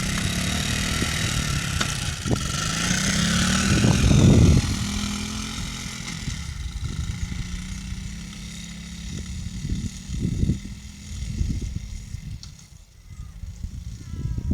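Peewee mini dirt bike engine revving up as it pulls away, its pitch climbing over the first few seconds, then running at a lower, steadier pitch and growing fainter toward the end.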